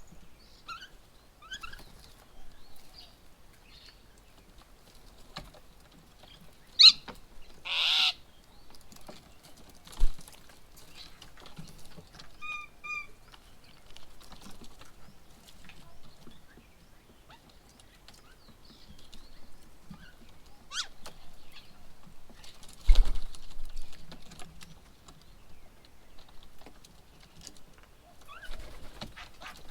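Birds at a feeding table: scattered short chirps and calls, with a loud noisy call burst about eight seconds in and a short double note repeated a few seconds later. A few sharp knocks are heard.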